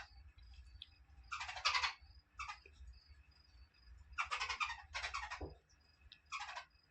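Babbler chicks calling: about five harsh, rasping calls in a loose series, some sliding down in pitch at the end. A faint repeated high chirping runs beneath them.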